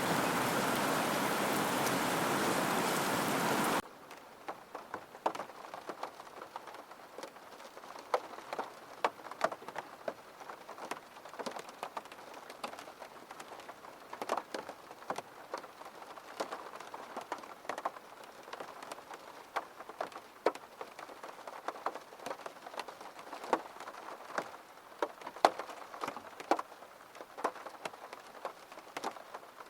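Heavy, steady rain that cuts off suddenly about four seconds in. It gives way to a quieter patter of scattered individual raindrops ticking irregularly.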